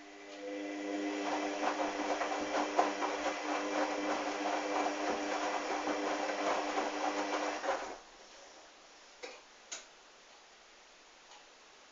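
Hoover washing machine's motor turning the drum on a wash cycle, a steady whine with the wet towels tumbling. It runs for about eight seconds, stops suddenly, and two short clicks follow.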